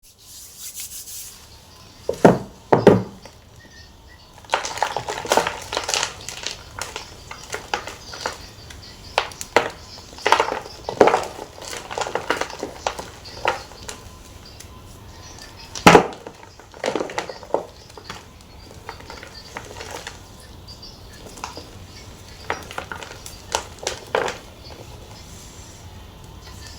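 Gym chalk being crunched and crushed in a series of irregular crisp crunches, with a few louder sharp snaps about two seconds in and again near the middle.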